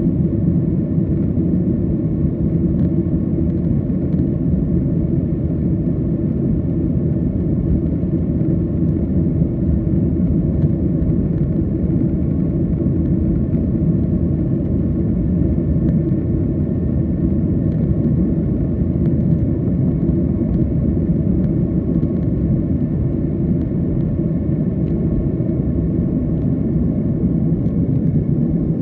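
Jet airliner cabin noise: a steady, even drone of the engines and the rushing air, heard from inside the passenger cabin.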